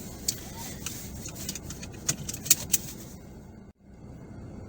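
Steady low road and engine rumble inside a car's cabin while driving, with a few sharp clicks and ticks. The sound drops out briefly about three-quarters of the way through.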